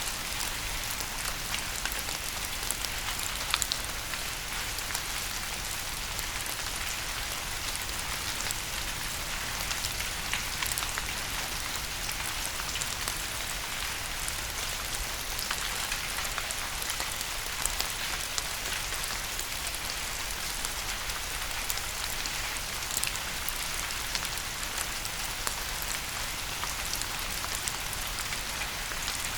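Steady rain falling, with many small raindrop taps scattered through an even hiss.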